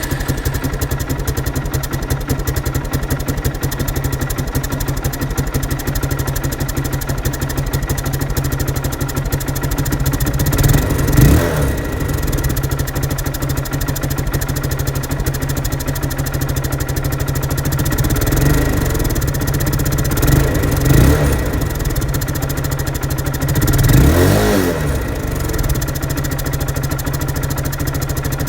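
Triton 450 Supermoto quad's engine idling steadily through its slip-on exhaust, with a few short throttle blips that rev up and fall back to idle: one a little over a third of the way in, two or three close together about two-thirds in, and one more shortly after.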